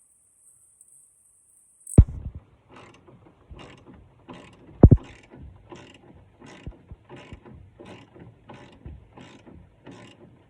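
A hand ratchet wrench worked in steady back-and-forth strokes, about two clicking strokes a second, after a sharp knock about two seconds in and with one more loud knock near the middle.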